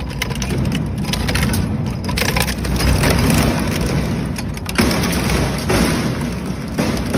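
Industrial shredder crushing and tearing scrap metal: a continuous heavy grinding rumble with frequent sharp cracks and snaps, getting louder about three seconds in.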